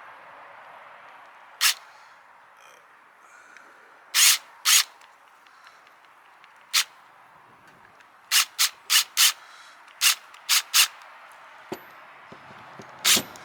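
About a dozen short, sharp rasping strokes, irregularly spaced, with a quick run of five in the middle, over a faint steady hiss.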